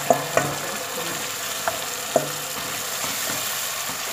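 Chopped fresh tomato sizzling as it lands in hot oil and tomato paste in a pot and is stirred. A few sharp knocks sound in the first half second and one more about two seconds in.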